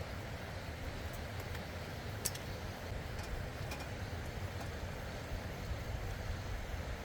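Steady rushing of a fast-flowing stream, an even noise with most of its weight low down, with a few faint clicks on top.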